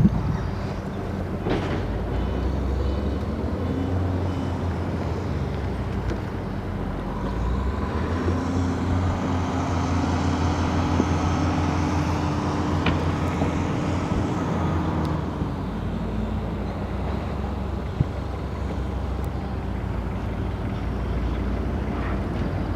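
High-speed passenger boat Seahawk's engines idling steadily at the quay, a low even hum. A higher humming tone swells in about eight seconds in and fades away about seven seconds later.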